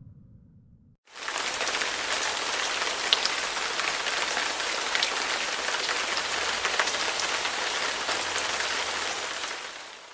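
A steady rain-like hiss sprinkled with small crackles, starting suddenly about a second in and fading out near the end.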